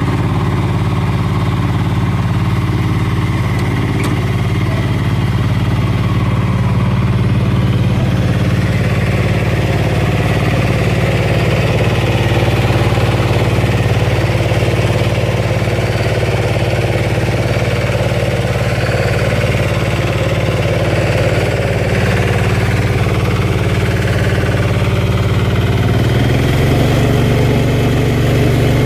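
Valpadana 4RM 180 mini tractor's diesel engine running steadily while it drives a rotary tiller through hard soil; the engine note shifts slightly near the end.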